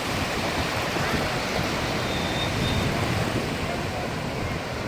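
Sea waves breaking and washing on the shore, a steady rushing noise.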